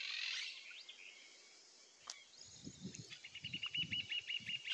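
A small bird giving a rapid run of short, high chirps, about ten a second, in the second half, over faint low thumps and a click.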